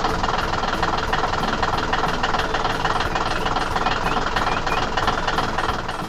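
Steady, dense engine-like machine noise with a fast regular pulse.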